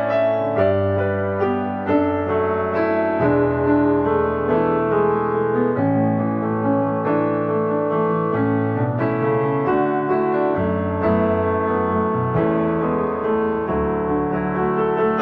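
Soft background piano music: slow, sustained notes and chords changing about every second or two.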